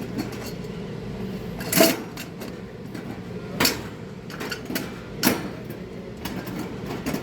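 Metal parts of a kerosene heater clinking and knocking as a part is fitted back on and tightened: three louder clanks about every second and a half among smaller clicks, over a steady low hum.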